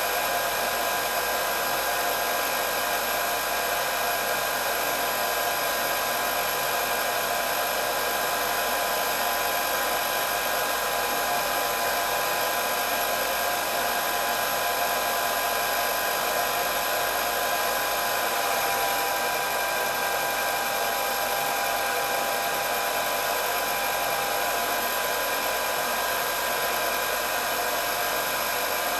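Hair dryer running steadily: a constant whirring rush of blown air with a steady motor whine on top.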